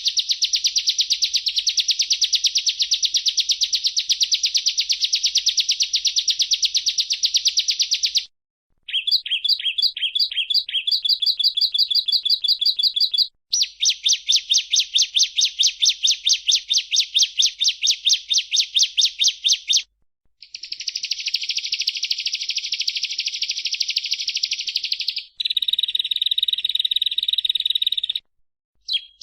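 Bar-winged prinia song: fast trains of high, sharp repeated notes in several bouts, broken by short gaps. One bout near the end is steadier and more whistle-like than the rest.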